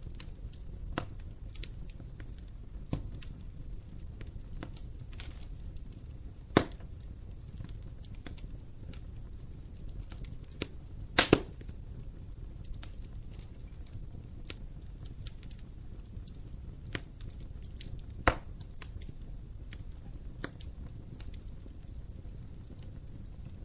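Wood fire in an open fireplace burning with a low steady rumble and scattered crackles, with sharp pops from the burning logs about a third of the way in, a double pop near the middle, and another about three quarters through.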